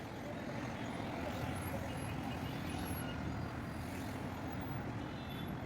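Steady road traffic noise: vehicle engines and tyres running without a break.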